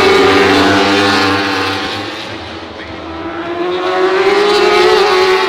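Racing superbike engines at high revs passing close: the sound is loud at first, fades about halfway, then swells again as more bikes come through, the engine pitch rising as they accelerate near the end.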